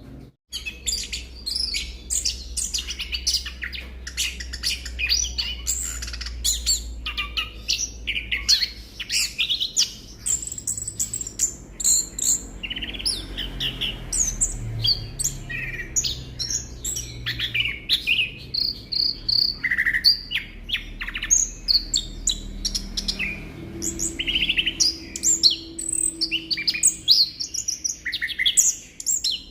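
Chestnut-capped thrush (anis kembang) singing a dense, quick stream of varied chirps, trills and short whistles, played as a prompting song to get a silent male to sing.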